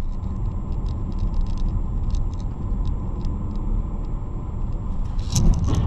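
Car on the road heard from a dashcam: a steady low rumble of engine and tyre noise with faint scattered ticks. A louder, rougher surge comes in about five seconds in.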